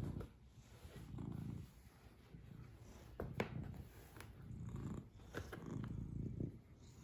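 A cat purring, the low rumble swelling and fading with each breath, with a sharp click a little over three seconds in.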